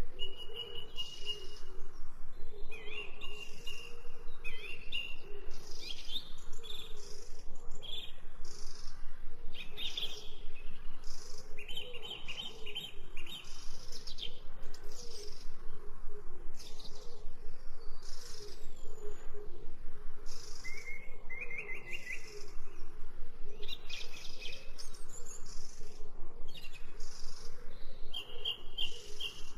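Wild songbirds chirping and singing, many short high calls and trills overlapping one after another throughout.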